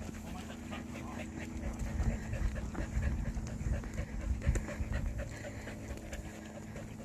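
Blue heeler dog panting rapidly and steadily, with heavier low thuds on the microphone in the middle.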